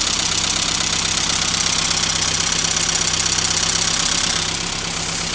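Volkswagen Golf engine running steadily at idle, heard from over the open engine bay, with a strong high hiss over the engine note that eases a little about four and a half seconds in.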